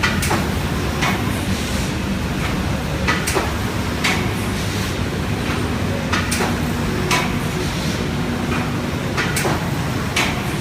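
Sakurai fully automatic embossing and spot varnish coating machine running: a steady mechanical hum with sharp clacks that recur in pairs about every three seconds.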